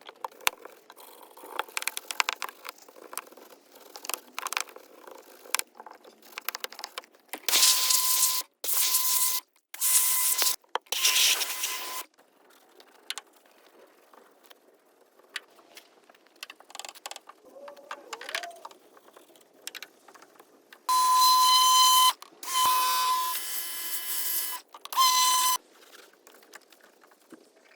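Repeated bursts of hissing spray or blown air from a nozzle during car detailing, each one to two seconds long with a steady high whistle running through it, in two groups of three. Quieter clicks and rubbing come between the bursts.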